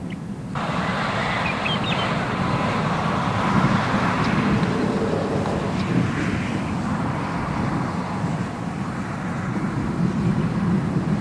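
Constant thunder-like roar from a supercell's hail shaft, a steady low rushing rumble that broadens and gets louder about half a second in.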